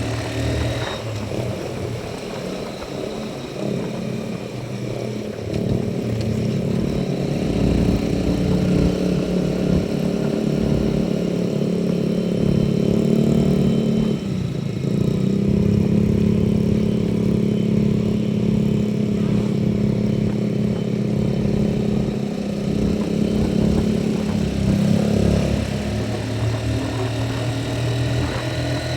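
Motorcycle engine running steadily while riding along a road, its note breaking off briefly and picking up again twice, about halfway through and near the end.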